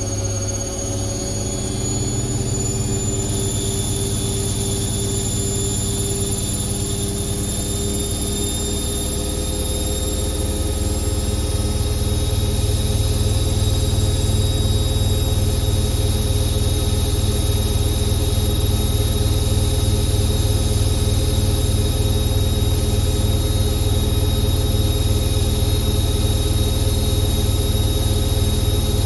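Indesit IWC6165 washing machine spinning, its motor whining high with a low drum hum; the spin gets louder about ten seconds in, then holds steady.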